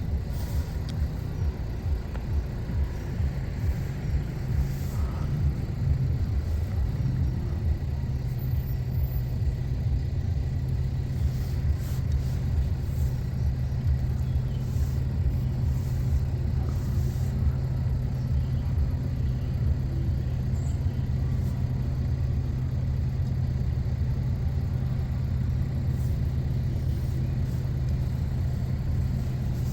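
A train passing over the level crossing: a low rumble with an even beat in the first several seconds, settling into a steady low hum.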